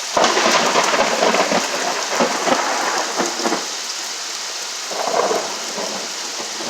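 Heavy rain pouring steadily during a severe thunderstorm. A loud crackling thunderclap breaks in at the start and crackles for about three seconds, and there is another swell about five seconds in.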